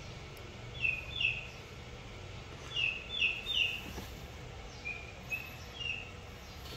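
Small birds chirping: eight short, high chirps, each dropping in pitch, coming as a pair about a second in, then three together, then three fainter ones near the end, over a low steady background hum.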